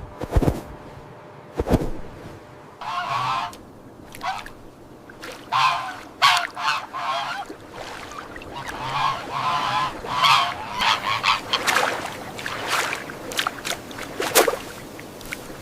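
Farm fowl calling over and over, many short calls in quick succession, with a few sharp clicks near the start.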